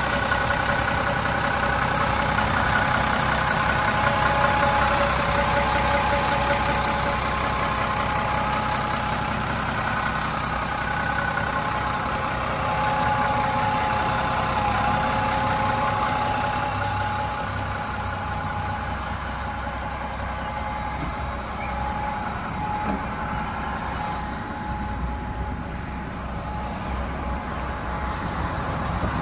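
Caterpillar 962G wheel loader's diesel engine running steadily, with a steady whine over the engine noise. The sound eases somewhat in the second half.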